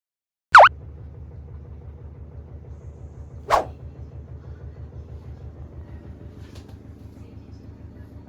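A dog gives a sharp, very loud bark about half a second in and a second, shorter bark about three seconds later, over a steady low pulsing rumble.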